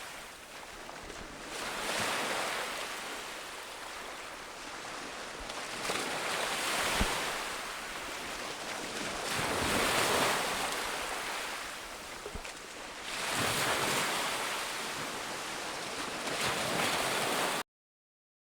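Ocean surf on a beach: waves breaking and washing in, swelling and fading every three to four seconds, then cutting off abruptly near the end.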